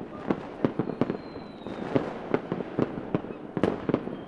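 Fireworks going off: an irregular string of sharp bangs, several a second, with a thin whistle gliding slightly down about a second in.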